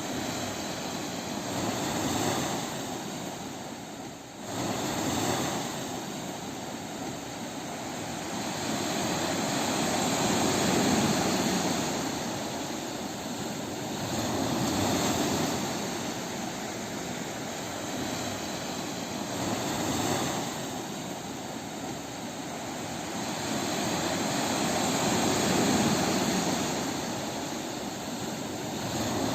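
Sea waves breaking on a beach: a continuous rush of surf that swells and ebbs every four to six seconds.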